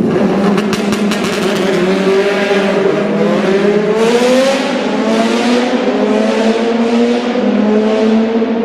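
Superbike engine under hard acceleration, its note climbing steadily and then swelling and dropping about once a second. A run of sharp clicks sounds in the first second.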